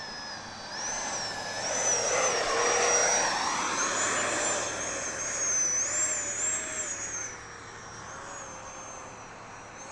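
FMS Rafale RC jet's electric ducted fan whining as the model flies past. It swells to its loudest about three seconds in, drops in pitch as it goes by, then fades back to a steadier distant whine after about seven seconds.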